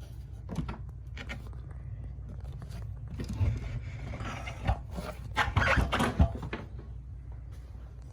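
Peavey Standard amplifier putting out a steady low hum, overlaid with crackles and bursts of loud hissing noise that are densest from about three to six and a half seconds in: the amp's faulty white-noise output.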